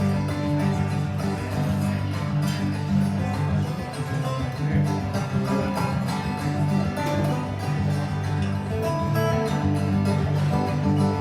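Acoustic guitar playing an instrumental passage of a song, steady and rhythmic.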